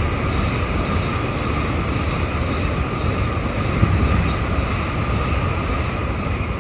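A train passing at speed below: a loud, steady rolling noise of wheels on rail, easing off slightly near the end.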